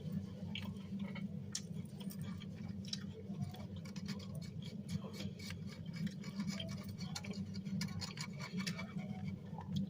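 Close-up chewing and crunching of a crispy spring roll: many small, irregular crackles, over a steady low hum.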